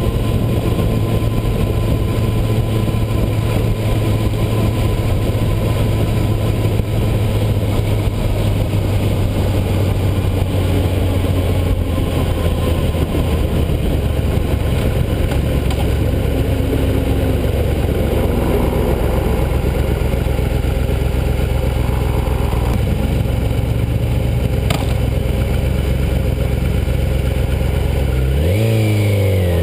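Yamaha YZF-R6's inline-four engine running steadily at low revs while cruising. About halfway through the engine note settles lower, and near the end it dips briefly and then climbs in pitch as the bike accelerates.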